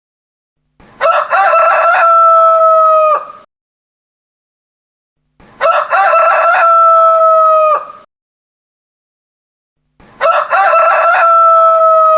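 Rooster crowing three times, about four and a half seconds apart. Each crow lasts about two and a half seconds, opening with a few short broken notes and ending in a long held note that cuts off sharply; the three crows are identical in shape.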